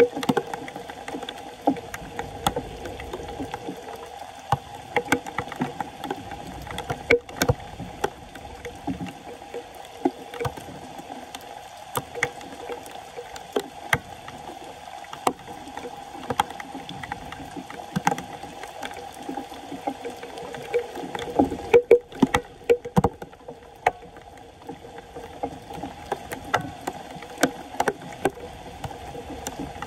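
Floodwater gurgling and churning at a street drain, with a steady low drone and many sharp clicks and knocks.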